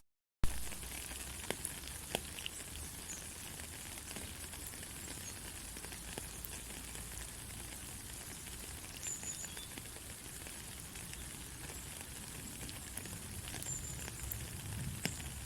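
Steady rain falling: an even hiss with scattered ticks of drops. The sound cuts out for a split second at the very start and comes back with a sharp click.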